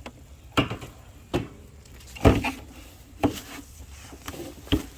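About five sudden thumps and rustles, the loudest a little past two seconds in, from hands digging sweet potatoes out of a rotting straw bale with a handheld camera being jostled.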